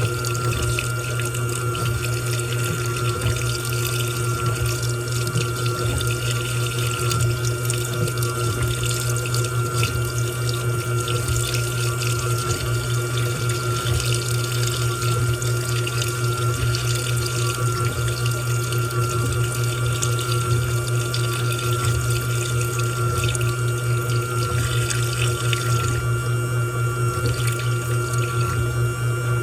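Washing machine filling: water running into the drum over a steady low hum, the splashing thinning out near the end.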